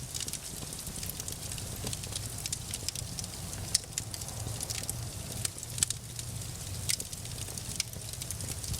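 Wood fire crackling with frequent small pops and a few sharper snaps, over a low steady rumble.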